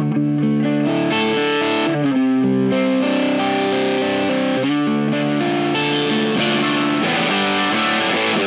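Electric guitar with high-output humbuckers played through a Wyong Rd Electronics Keris overdrive/fuzz pedal into an amp's clean channel, giving a driven tone. Chords and single notes ring one into the next, changing every half second to a second or so.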